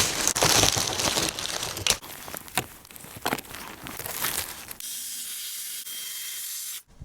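Plastic tarp crinkling and rustling as it is handled, loud at first, then quieter crackles. A steady hiss follows for about two seconds and cuts off suddenly near the end.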